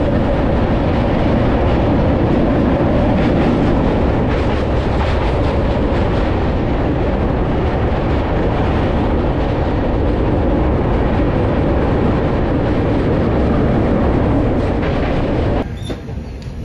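Express passenger train running fast over a steel girder bridge, heard from an open coach doorway: a loud, steady rumble of wheels on rails. Shortly before the end it cuts abruptly to a quieter run of the train.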